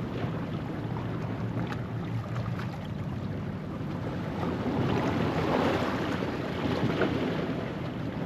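Ocean waves washing over a rocky shoreline at low tide, a steady rush of surf that swells louder about halfway through as a wave breaks and washes in, with some wind on the microphone.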